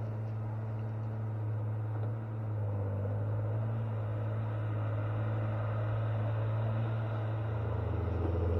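Engine of a logging machine running steadily with an even hum. Near the end it picks up, getting louder and deeper as it comes under more throttle.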